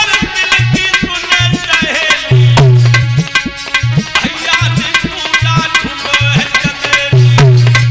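Instrumental devotional music: tabla-type hand drums playing a rhythm with deep booming bass strokes, under a melodic instrument line with bending notes.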